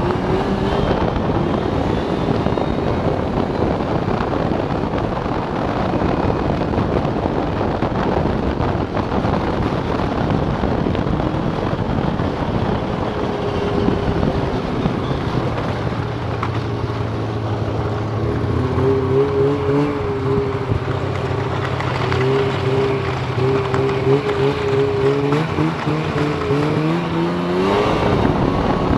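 Snowmobile engine running hard at speed, with a dense rush of track and wind noise. About halfway in a steady engine tone stands out, holding its pitch with small wavers, and it rises near the end as the throttle opens.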